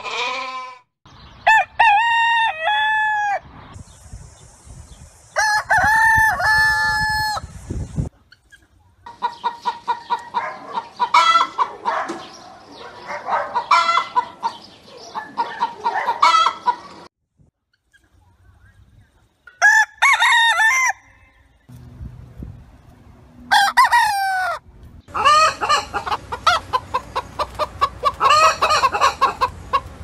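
Chickens: a rooster crows several times, with hens clucking in long busy runs between the crows.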